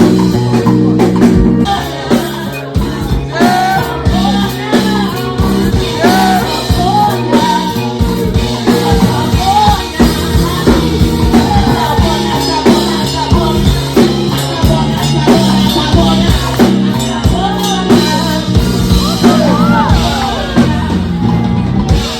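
Live band music: drum kit and bass under a singing voice that slides between notes.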